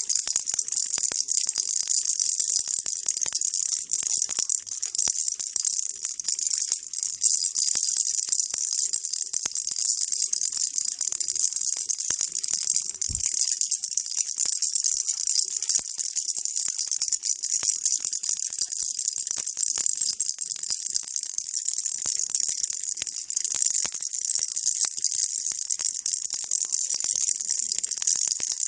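Baby rattle shaken continuously, a steady stream of fine, high clicking beads, with a soft thump about halfway through.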